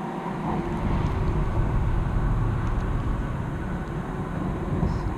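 Low, uneven rumbling noise that swells about half a second in and holds steady, with no clear pitch.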